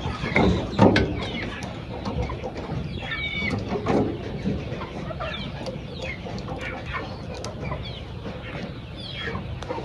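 Chicks and chickens peeping and clucking, many short calls overlapping, with a couple of knocks in the first second or so.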